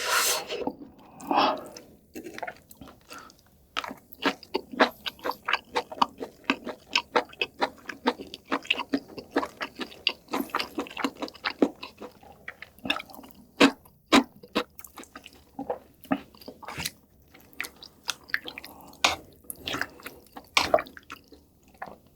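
Close-miked chewing of soup, rice and meat: quick wet smacking clicks, several a second, densest in the first half, then slower and more scattered.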